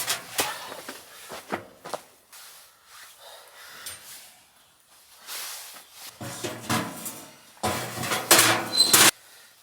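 Things being handled: a string of knocks and clatters with rustling, busier and louder near the end.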